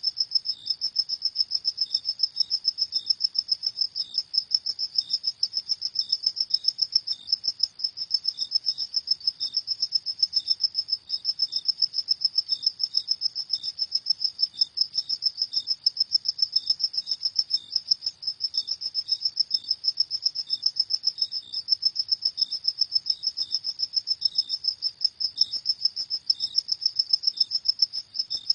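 Crickets chirping: a continuous, rapidly pulsing high trill, with a second, slightly lower chirp repeating at a steady pace underneath.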